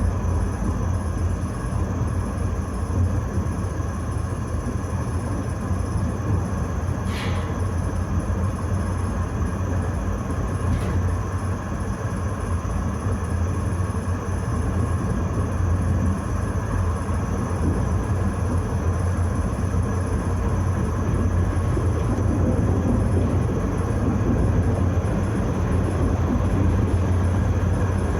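Tram riding along its line, heard from inside the car: a steady low rumble of the running tram. Two brief higher-pitched sounds come about a quarter of the way in and again a few seconds later.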